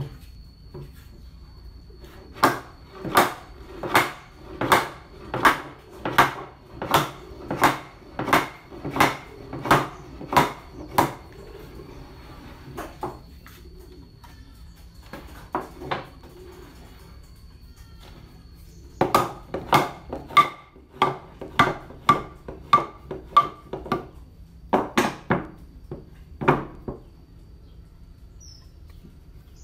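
A hand tool working wood in a run of even rasping strokes, about three every two seconds. It pauses partway, then goes on in a faster run of strokes and a few last ones.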